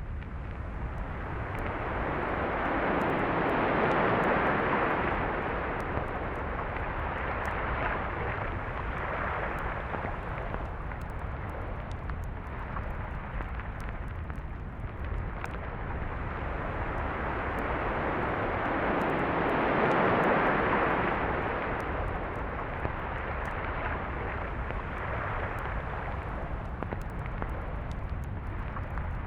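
Sea waves breaking and washing up a beach: two large swells build and fade about sixteen seconds apart over a steady low rumble.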